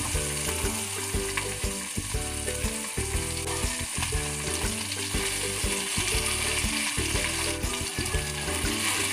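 Diced potato, carrot and red bell pepper sizzling in hot oil in a frying pan, with a steady hiss, over background music.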